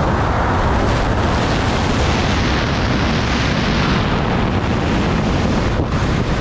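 Loud, steady rush of wind buffeting the camera microphone, the airflow of a wingsuit flight.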